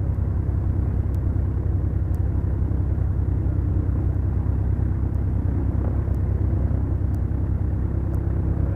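Beechcraft Duchess's twin four-cylinder Lycoming engines running steadily, a deep, even drone heard inside the cockpit. Faint ticks sound about once a second over it.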